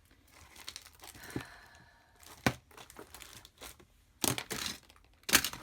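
Paper and craft supplies being rummaged through on a desk: crinkling and rustling, broken by several sharp clicks and knocks, the loudest about four and five seconds in.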